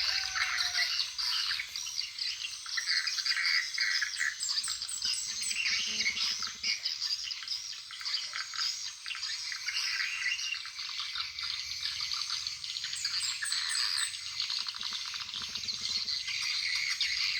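Swiftlets calling: a dense, continuous high twittering of chirps, with runs of rapid clicks about six seconds in and again around fifteen seconds.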